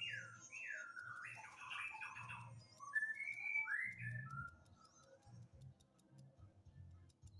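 Zebra dove chick giving whistly, squeaky begging calls while being hand-fed, in a run of quick rising and falling glides during the first four seconds or so. After that come faint, sharp ticks.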